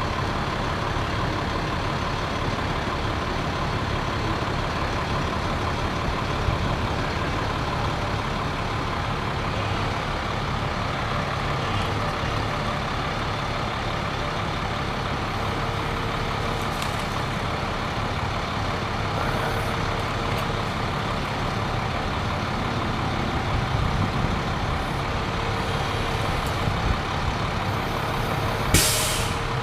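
Bucket truck's engine running steadily while the lift handles the tree, with a brief sharp noise near the end.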